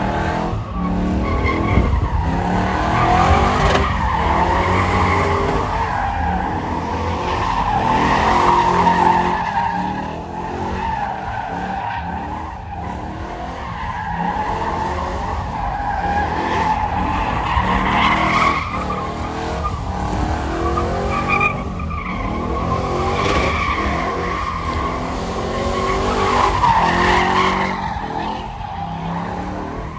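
Vehicle tyres squealing in long, wavering swells over a running engine's low rumble, as in a burnout or donuts; the squeal rises and falls several times.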